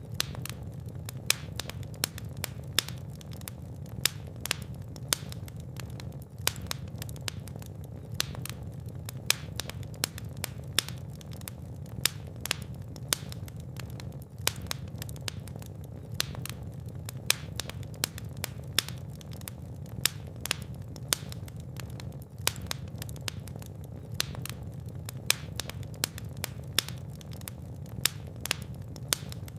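Fire in a fireplace crackling, with frequent sharp pops at irregular intervals over a steady low rumble of the flames.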